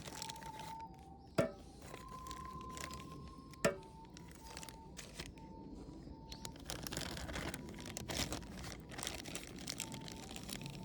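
Soft alto recorder background music playing held notes. Two sharp cracks come in the first four seconds, and dense crackling fills the second half.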